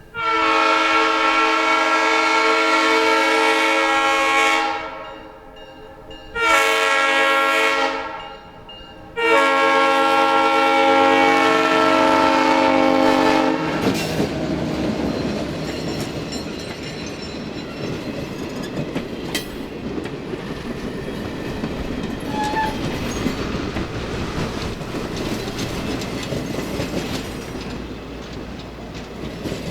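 Locomotive air horn sounding three blasts: a long one, a short one, then another long one. After that comes the steady rumble of the train rolling along the track, with wheels clicking over rail joints.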